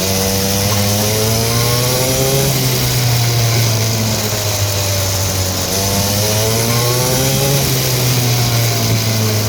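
Small dirt bike engine running under throttle, its pitch climbing twice as it revs up and then falling back in between.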